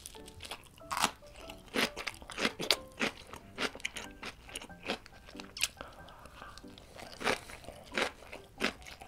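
Close-miked crunching and chewing of a fried chicken nugget: sharp crisp bites and chews at an irregular pace of roughly one to two a second.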